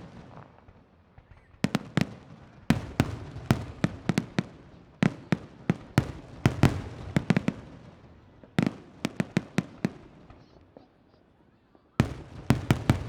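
Fireworks display: clusters of sharp bangs from bursting shells, several in quick succession, with short pauses between the volleys.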